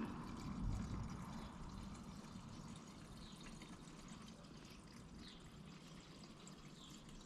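Fresh gasoline pouring faintly from a fuel can into a four-cycle lawn mower's fuel tank, a steady trickle.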